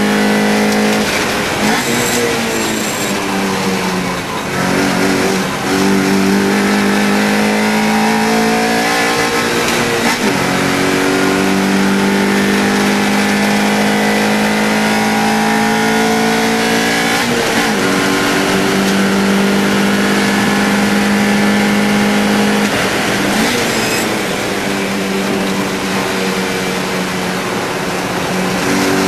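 The 1.6-litre four-cylinder engine of a Mini Challenge Cooper race car pulling hard on track. Its note climbs steadily and then drops sharply about five times as it goes through gear changes and slows for corners.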